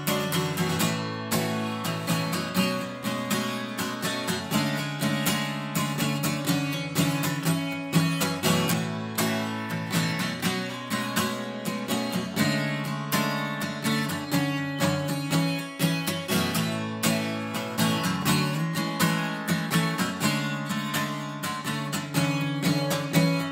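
Acoustic guitar strummed in a steady, rhythmic pattern: an instrumental passage of a singer-songwriter's song with no vocals.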